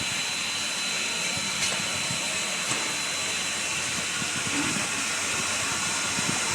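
Steam locomotive ATSF 2926, a 4-8-4, giving off a steady hiss of escaping steam with a thin steady high tone in it.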